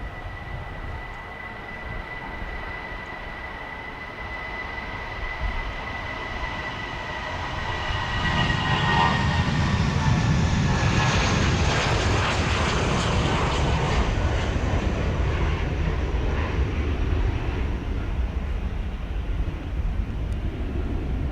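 Jet airliner's turbofan engines: a steady high whine that dips slightly in pitch about eight seconds in, as a loud engine roar swells and then holds.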